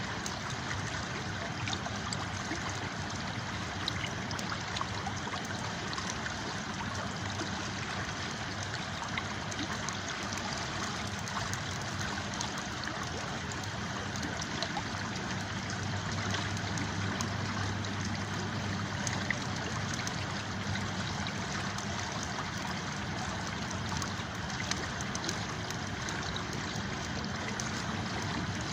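A river flowing steadily, with faint, scattered crackles of a campfire throughout.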